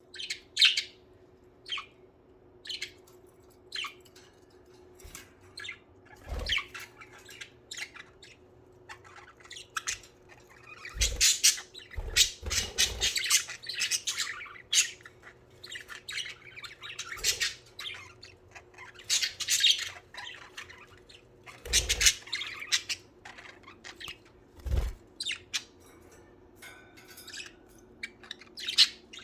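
Budgerigars chirping and squawking in short, irregular calls, with a few brief low thumps now and then and a faint steady hum underneath.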